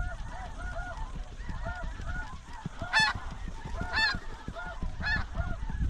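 A flock of snow geese calling: many overlapping short, high honks, with three louder, nearer honks about a second apart in the middle.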